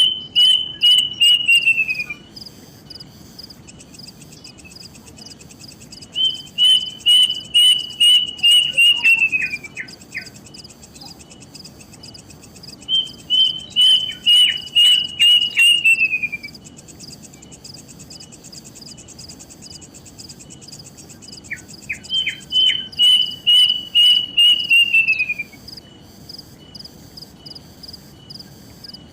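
A bird calling four times, each call a run of about ten clear whistled notes that step down in pitch, over a steady high insect trill.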